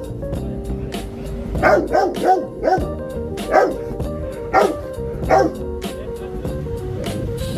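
A dog barking: a quick run of barks about two seconds in, then single barks about once a second, over steady background music.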